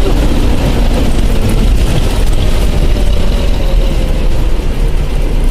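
Bus engine running with a steady, heavy low rumble.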